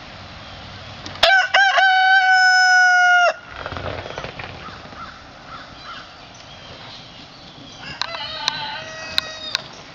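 Barred Rock rooster crowing loudly: a few short clipped notes, then one long held note lasting about two seconds. A second, fainter crow follows near the end.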